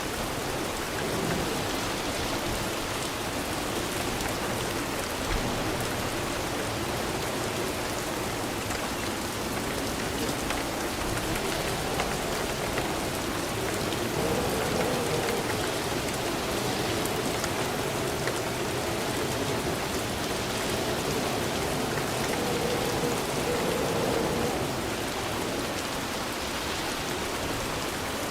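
Steady rain falling and pattering on a surface, with a dense, even hiss of drops.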